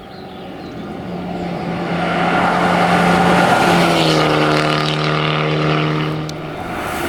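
Abarth Punto Evo hillclimb car's turbocharged four-cylinder engine running hard under load as it comes closer and passes, growing louder over the first couple of seconds. The engine note drops in pitch about halfway through, then the sound eases off near the end.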